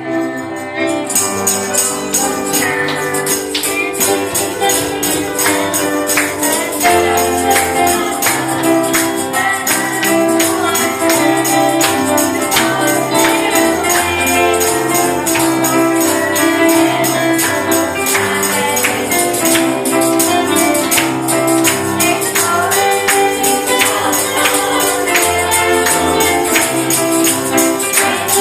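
Live gospel music: a tambourine shaken in a quick, steady rhythm over a band with a bass line that steps between notes, and voices singing.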